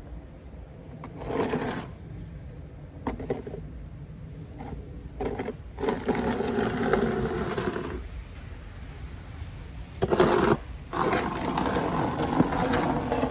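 Snow shovel blade scraping along pavement in a series of pushes, the longest lasting two to three seconds each.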